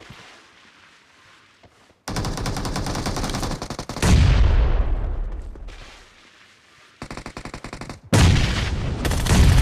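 Automatic gunfire in a shooter video game. Rapid shots start about two seconds in, a heavier, deeper blast comes about four seconds in and dies away over a couple of seconds, then rapid fire returns with another heavy burst near the end.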